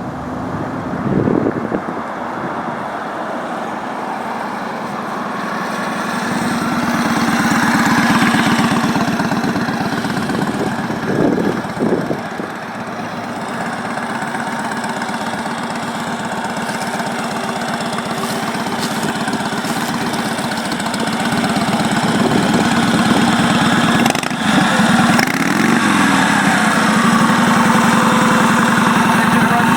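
1937 Indian Sport Scout's flathead V-twin engine running as the motorcycle rides up, with a few brief louder bursts, growing louder and settling into a steady run over the second half.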